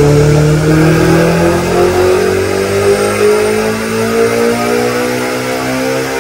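Turbocharged Honda S2000 four-cylinder engine at full throttle on a dyno pull, its pitch climbing steadily as the revs rise, heard from inside the cabin.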